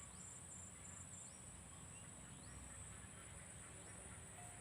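Faint steady high-pitched insect drone, with a short rising chirp about once a second.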